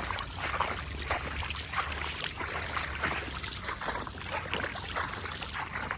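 Legs wading through knee-deep floodwater, the water swishing and sloshing in uneven strokes with each stride, over a low rumble of wind on the microphone.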